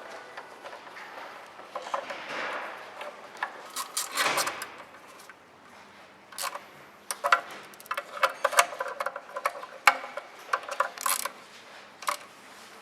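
Irregular clicks, clinks and knocks of hard objects being handled, with some rubbing noise and a louder swell about four seconds in.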